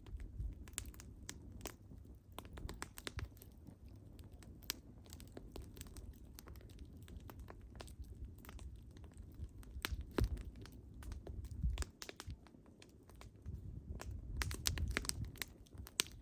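Burning wood fire crackling, with irregular sharp pops and snaps over a low rumble of the flames, and a busier run of pops near the end.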